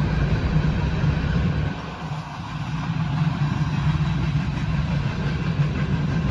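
Freight cars rolling past through a grade crossing, a steady low rumble heard from inside a stopped car; the rumble eases for a few seconds partway through, then returns.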